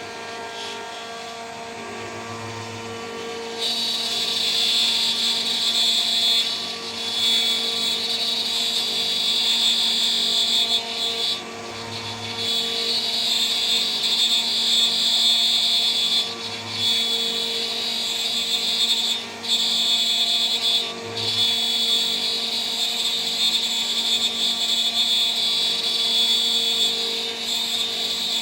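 CNC spindle running at about 14,000 RPM with a steady whine. About three and a half seconds in, its 3 mm three-flute end mill starts cutting, adding a loud, high-pitched milling screech that drops out briefly several times as the tool moves.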